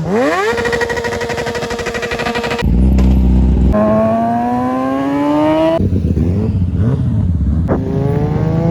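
Kawasaki ZX-10R inline-four engine revving hard: a quick rise to a held high rev, then the bike accelerating with the pitch climbing steadily through the gears, in sharply cut segments.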